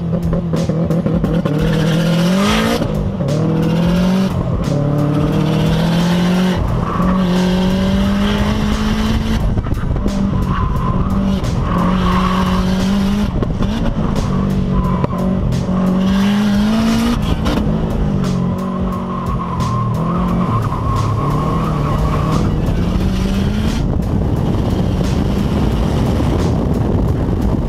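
Turbocharged EJ257 flat-four boxer engine of a 2005 Subaru STI revving hard, its pitch climbing and dropping again and again through shifts and lifts on an autocross run. Tyres squeal in long stretches through the corners.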